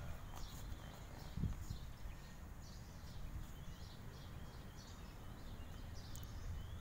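Birds chirping in short high calls over a steady low background rumble, with one soft thump about a second and a half in.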